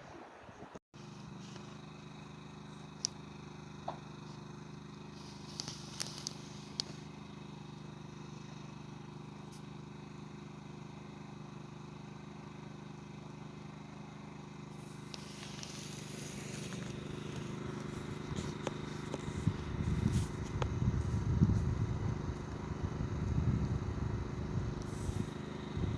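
Wind rising through pine trees, with a rushing surge about halfway through and low gusts buffeting the microphone in the last several seconds. Underneath is a steady low hum, with a few sharp clicks early on.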